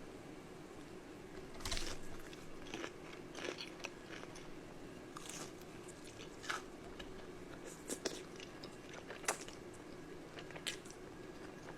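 Close-miked mukbang eating: crunchy bites and chewing of food, with a string of short, sharp crunches scattered throughout. The sharpest crunch comes about nine seconds in.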